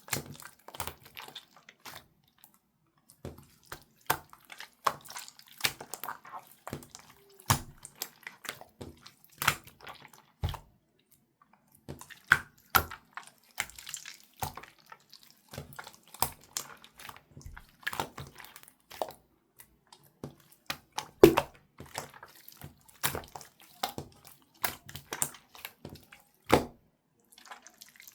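Hand-played slime, sold as a bamboo-feel slime, being pressed and squished, giving irregular wet pops and clicks several times a second, with a short pause about a third of the way in.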